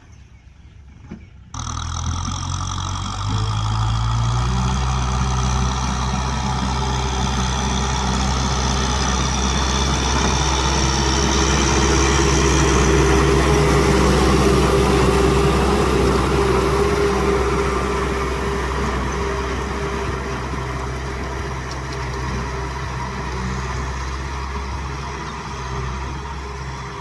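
Kubota M6040 tractor's diesel engine running while plowing a rice field. It comes in abruptly about a second and a half in, picks up speed a couple of seconds later, then runs steadily and eases off slightly near the end.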